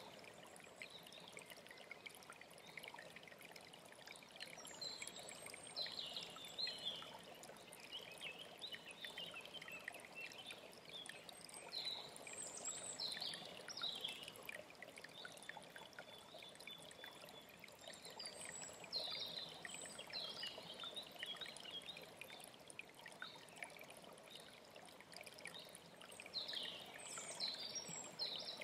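A mountain stream flowing steadily, with a songbird singing short, high phrases about every seven seconds over it.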